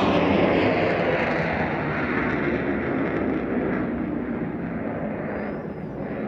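Hawker Hunter's Rolls-Royce Avon jet engine receding just after a fast pass, its noise dying away steadily.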